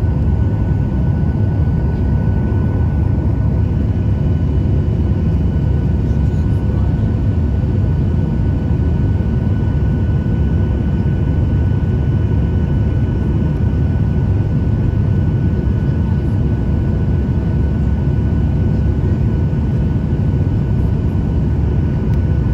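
Steady cabin noise inside a Boeing 737-800 in flight: a deep, even rumble of its CFM56 turbofan engines and the airflow, with a few faint steady whines above it.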